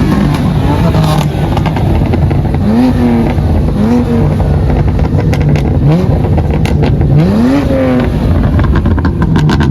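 Car engines running loud, with several short revs that rise and fall in pitch over a steady low drone, and a run of sharp exhaust crackles in the second half.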